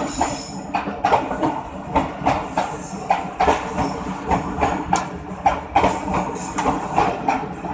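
Train running past on the track, its wheels striking the rail joints in a repeated clickety-clack, with a thin high-pitched squeal that comes and goes above it.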